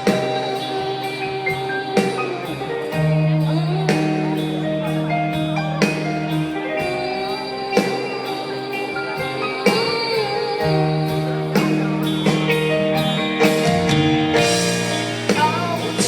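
A live rock band playing a passage of the song with a steady drum beat, a bass line and sustained guitar and keyboard notes.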